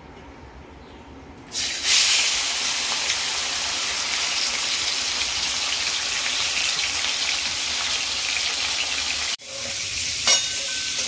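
Raw chicken pieces hitting hot oil in a wok, starting a loud, steady sizzle about a second and a half in. After a short break near the end, chicken and green beans sizzle as a spatula stirs against the wok, with one sharp knock.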